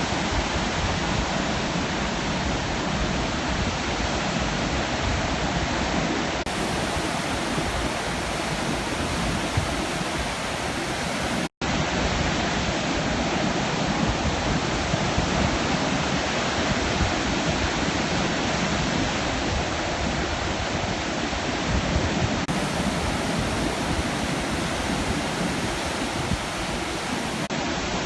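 Steady roar of sea surf breaking, a continuous rushing wash of waves. The sound cuts out completely for a split second about eleven seconds in.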